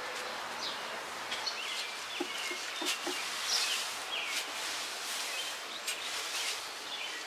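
Birds chirping in short, scattered high calls over a steady outdoor hiss, with a few faint rustles or knocks.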